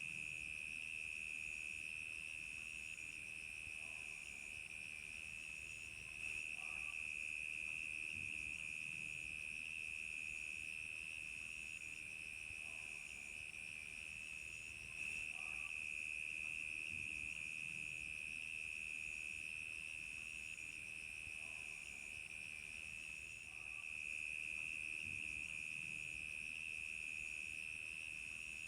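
Crickets chirping in a steady, unbroken chorus, with a fainter, higher call pulsing in a regular rhythm above it.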